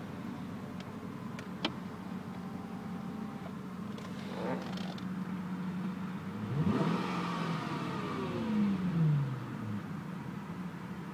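Mercedes-Benz S55 AMG's 5.4-litre V8 idling steadily, heard from inside the cabin, then revved twice with the car standing still: each time the pitch rises quickly and falls back to idle. A single sharp click about one and a half seconds in.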